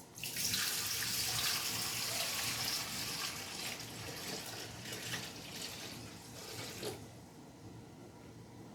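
Water poured from a large pitcher into a cooking pot: a steady splashing pour that tapers off and stops about seven seconds in.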